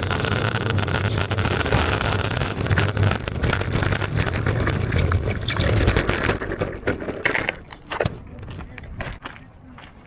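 Longboard wheels rolling over pavement with a steady rumble and clatter, which dies away about seven seconds in as the board slows and stops, leaving a few scattered clicks.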